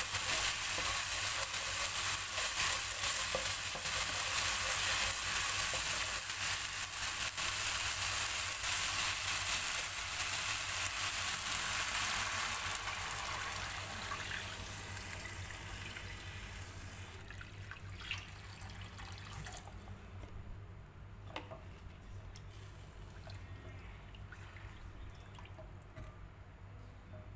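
Ground spice paste sizzling as it fries in a nonstick wok while being stirred with a wooden spatula. About halfway through, water is poured in and the sizzling fades away, leaving quiet stirring with a few spatula taps.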